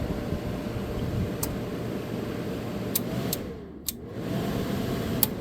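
Fan of a 1985 White Westinghouse 5900 BTU air conditioner running steadily, its compressor not yet on. Several sharp clicks sound through it, and about three and a half seconds in the fan sound dips, its pitch falling, then picks back up.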